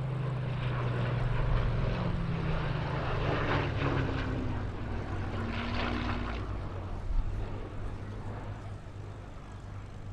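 Rolls-Royce Merlin V12 engine of a Second World War fighter making a flying pass. The engine is loudest in the first few seconds, then its pitch drops and it fades as the aircraft moves away.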